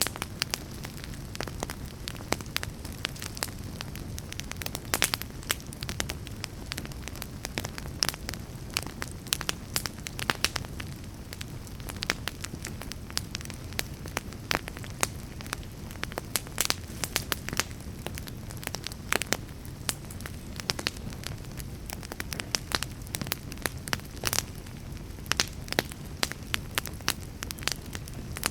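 Fire crackling: a steady low rumble of burning with frequent, irregular sharp pops and snaps.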